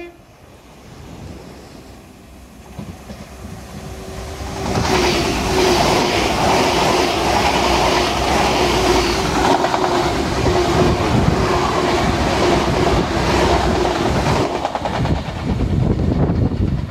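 A Great Western Railway Hitachi Intercity Express Train passing close by on diesel power. It builds up over the first few seconds, then comes a loud rush of carriages and wheels on the rails with a steady engine hum, and the sound drops away at the very end as the train leaves.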